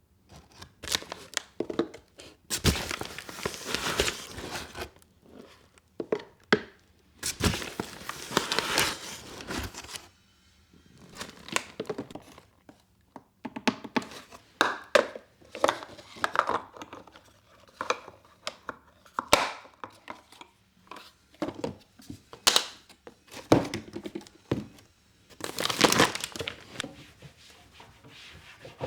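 Packaging crinkling and tearing in several bursts of a second or more, with scattered clicks and knocks of things being handled.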